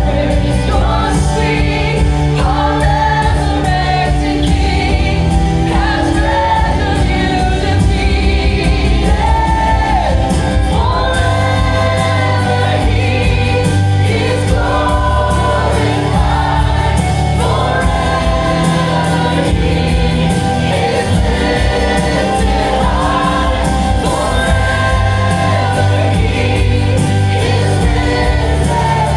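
Gospel worship music: a choir and congregation singing together over a band with a strong bass.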